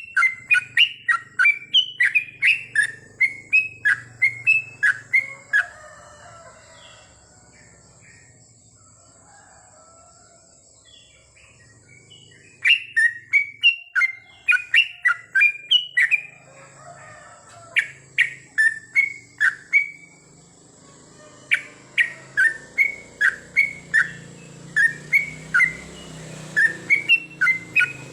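Yellow-vented bulbul singing: runs of short, quickly repeated falling notes, about three a second, in four bursts with quiet pauses between them, the longest pause about six seconds in.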